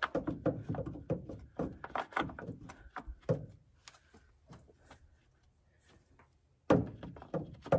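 Irregular clicks and knocks of hands and tools working on a tractor's oil filter housing, busy for the first few seconds, then a few scattered taps and a loud clatter near the end.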